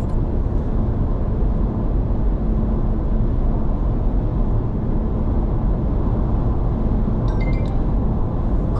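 Steady road and tyre rumble with engine hum inside a Honda ZR-V's cabin while driving at a constant speed.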